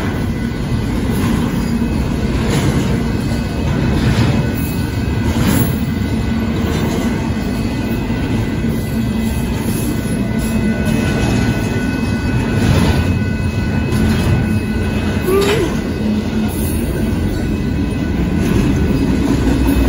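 Union Pacific double-stack intermodal train's container cars rolling past over a grade crossing: a steady loud rumble with irregular clacks of wheels over the rail joints.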